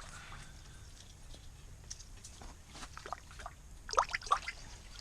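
Water splashing and trickling in an ice-fishing hole as a released whitefish goes back down through it, with a few short splashes that are loudest about four seconds in, over a low steady rumble.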